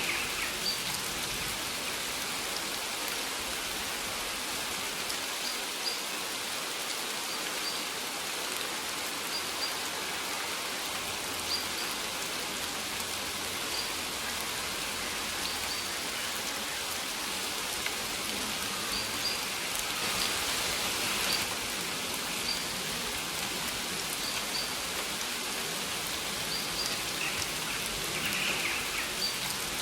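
Steady rain falling, an even hiss, with a bird giving short high chirps every second or two.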